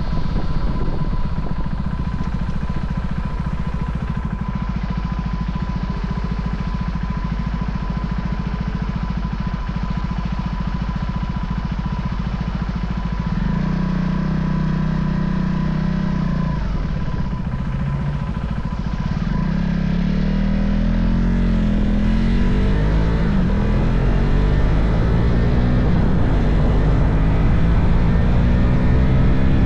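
Husqvarna Vitpilen 401's single-cylinder engine running under way, steady at first, then its engine speed rising and falling several times in the second half.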